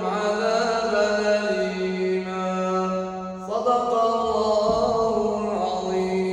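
A male Quran reciter chanting in long, drawn-out melodic notes, the held pitch stepping to a new note twice.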